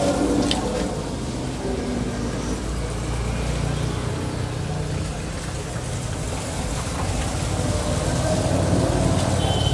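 Steady rumble of background road traffic, with a few small clicks of handling about half a second in.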